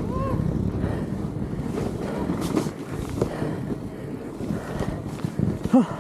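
Wind buffeting the microphone over the running noise of a fat bike riding a trail, with a short pitched sound rising and falling near the end.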